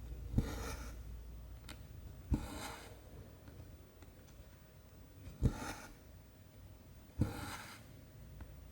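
Cross-stitch needle pushed through 14-count canvas, each time a small sharp tap followed by a half-second hiss of cotton thread drawn through the fabric, four stitches about two seconds apart.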